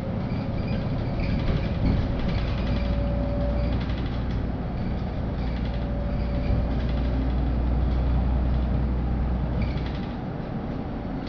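Inside a LiAZ-5292 low-floor city bus under way: the engine and drivetrain run with a strong low rumble and a faint steady whine, with rattles from the cabin. The low rumble drops off about ten seconds in.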